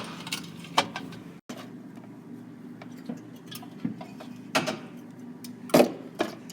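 Aluminium soda cans knocking and clinking as they are set into the fridge one by one: a few light knocks, then two louder ones near the end.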